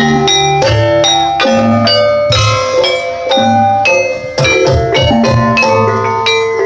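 Javanese gamelan music: metal mallet instruments ringing out quick struck notes over a steady drum pattern.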